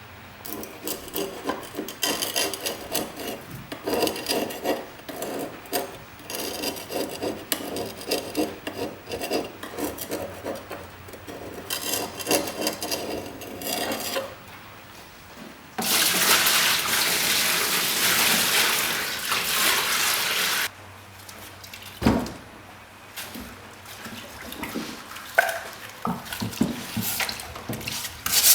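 Quick, rhythmic rubbing strokes, as of scrubbing or sanding a part of a vintage slide projector by hand, for about the first half. Then a loud, steady hiss for about five seconds, a single sharp knock, and light handling noises.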